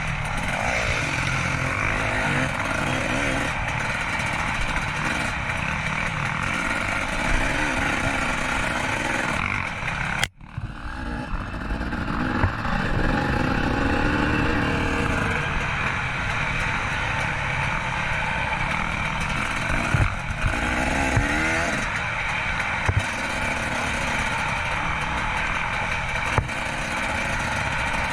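Dirt bike engine running as it is ridden, the revs rising and falling over and over. A third of the way in the sound cuts out for a moment, then the revs climb again.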